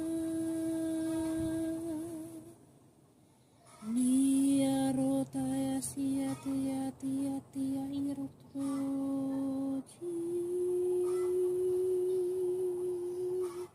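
A voice toning light language in long held, hummed notes. One held note wavers as it ends, then comes a short pause for breath. A lower note follows, broken into quick repeated syllables, and then a steady higher note that cuts off at the end.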